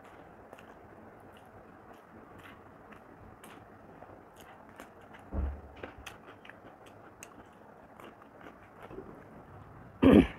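Close-miked eating sounds of a person chewing rice and papaya ghonto eaten by hand, with small wet mouth clicks throughout. A dull bump comes about five seconds in, and a short loud thump near the end.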